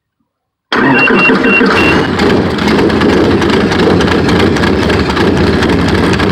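H5 light aircraft's engine catching abruptly under a second in and running steadily at a fast idle. A short series of high beeps sounds briefly about a second in.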